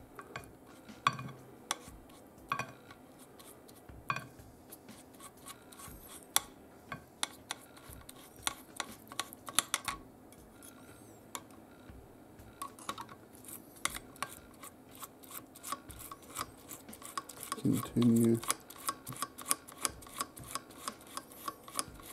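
A toothbrush scrubbing a die-cast metal car body held in tweezers in a cut-glass dish of paint stripper, stripping off old paint. The car and tweezers tap and click against the glass again and again, irregularly at first and faster near the end.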